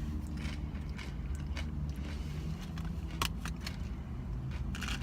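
Tortilla chips being chewed, a few sharp crunches near the end, over a steady low hum.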